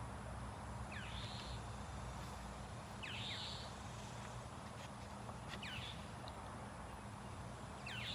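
A bird calling about every two to two and a half seconds: a quick pitch-sweeping note, sometimes followed by a short raspy one. Underneath is a steady low hum.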